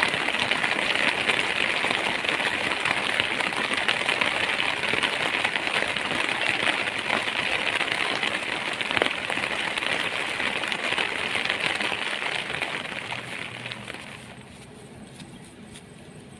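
Steady rain, a dense hiss with crackling patter. It drops away about fourteen seconds in to a much quieter background.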